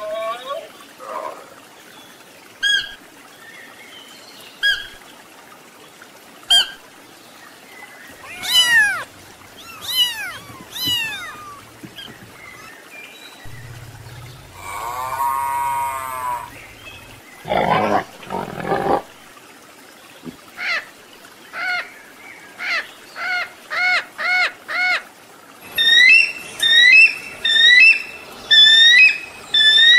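A string of different animal calls cut one after another. Short high chirps come first, then arching rising-and-falling calls, one longer call in the middle, and rapid repeated chirps near the end.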